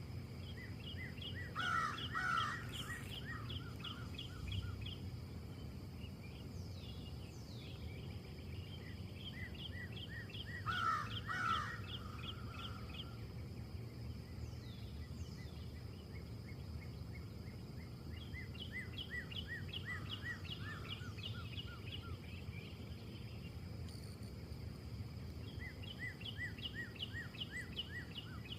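Small birds singing repeated fast trills of high chirps over a steady low background rumble, with a louder, harsher bird call twice, about two seconds in and about eleven seconds in.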